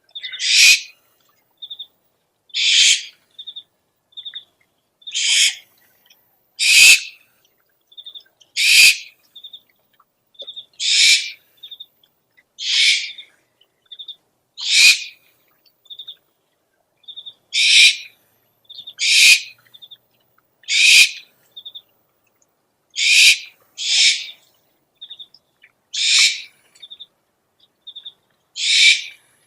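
Owl calls: harsh, hissing screeches repeated about every two seconds, with short high piping notes in between.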